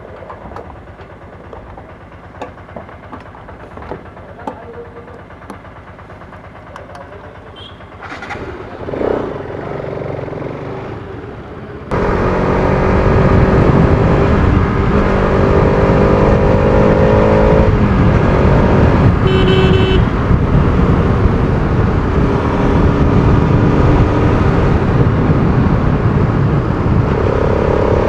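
Quieter street sound with scattered clicks, then from about twelve seconds in a loud Bajaj Pulsar RS200 single-cylinder engine running under way, with wind on the microphone and its pitch rising and falling with the throttle. A vehicle horn sounds briefly about seven seconds after the change.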